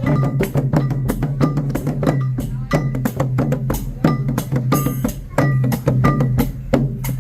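Khmer chhay-yam festive music: drums and small cymbals struck in a fast, dense rhythm, with short ringing metallic notes over a steady low drone.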